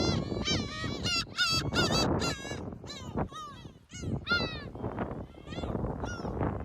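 Several birds calling over and over in short, honking calls that arch up and down in pitch and overlap, a few each second.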